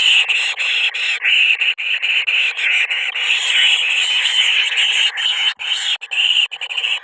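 A dense, continuous chorus of animal calls, high-pitched and without any low sound, breaking off briefly several times.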